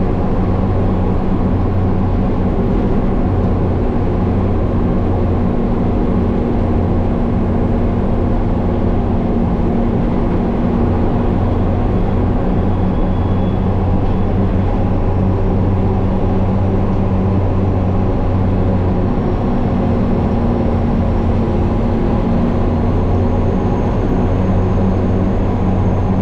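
Truck engine running at a steady speed while driving, heard from inside the cab: a constant low hum that holds even throughout, with no gear changes or revving.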